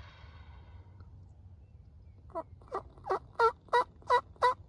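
Wild turkey yelping: a run of about seven evenly spaced yelps, around three a second, starting about two seconds in and growing louder with each note.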